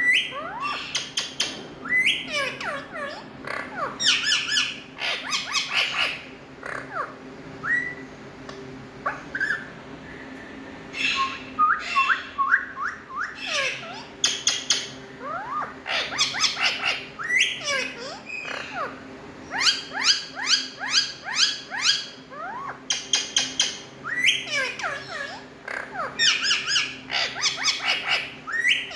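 Indian ringneck parakeets calling, repeated bursts of shrill squawks and quick sweeping notes with short pauses between them.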